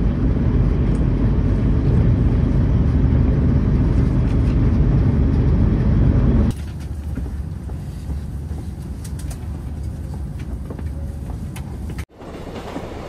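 Hokuriku Shinkansen train running at speed, heard from inside the car: a loud low rumble that cuts off suddenly about halfway through to a quieter, thinner hum with faint ticks. Near the end it drops out for an instant and then comes back.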